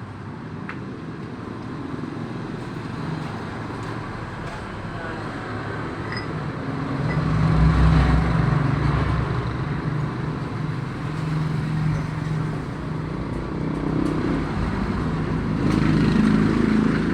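Road traffic: a motor vehicle's engine running, growing louder about seven seconds in and again near the end.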